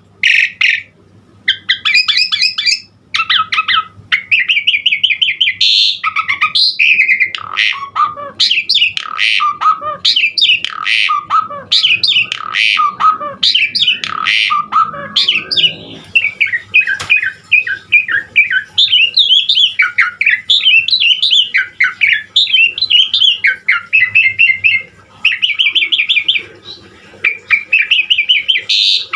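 Asian pied starling (jalak suren) singing almost without pause: a fast, varied song of chattering trills, whistled notes and harsh squawks, with mimicked phrases mixed in.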